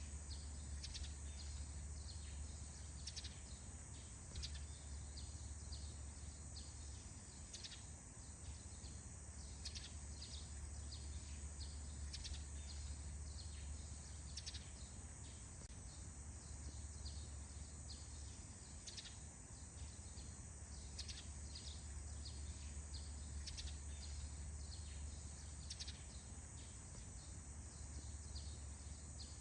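Forest morning ambience: small birds give short, sharp falling chirps every second or so over a steady high insect drone and a low steady rumble.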